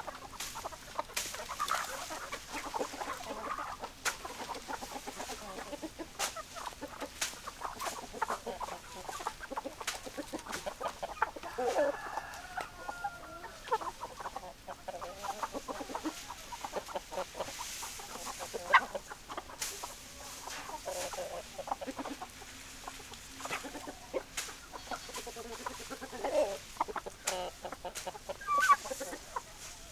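A flock of chickens clucking and calling throughout, with a few sharp clicks among the calls.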